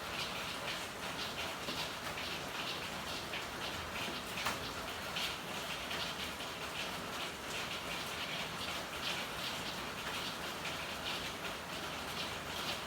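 Steady rain falling: a dense patter of drops over a constant hiss, with one sharper drip about four and a half seconds in.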